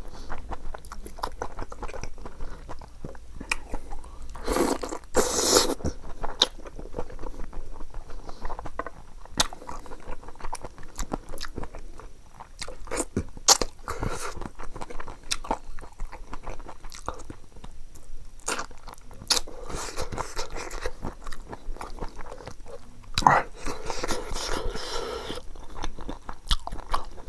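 Close-miked eating by mouth: chewing and crunching with many short sharp clicks, louder around five seconds in and again near the end.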